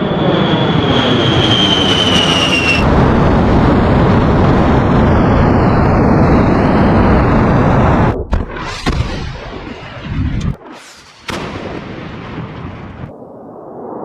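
Loud, continuous rumble of explosions, with a jet engine's whine falling in pitch over the first few seconds. After about eight seconds the sound cuts off abruptly several times, as the clips change.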